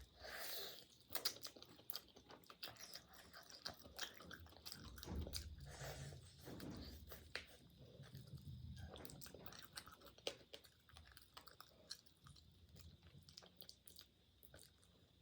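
Close-up chewing and biting of food, with many small wet clicks and crunches from the mouth.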